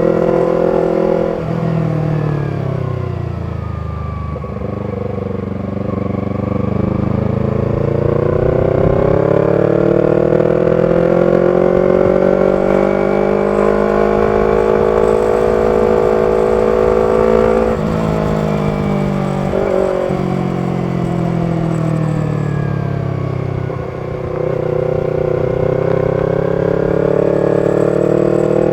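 Yamaha R25's parallel-twin engine breathing through a B-Pro aftermarket exhaust while ridden. The revs fall for the first few seconds, then climb steadily for about ten seconds. They break briefly, fall away, and climb again near the end.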